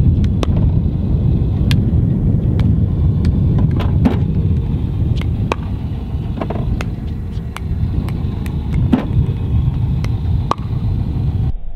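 Strong wind buffeting the microphone as a steady low rumble, with irregular sharp knocks of a plastic pickleball being struck by paddles and bouncing on the court.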